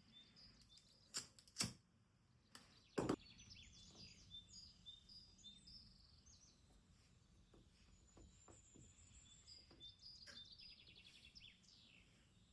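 Faint birds chirping throughout, in quick high twitters. A few sharp clicks or knocks stand out between about one and three seconds in.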